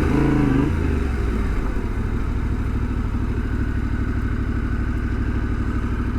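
Yamaha Tenere 700's parallel-twin engine slowing, its pitch dropping and swinging back in the first second, then idling steadily with an even pulse as the bike stands.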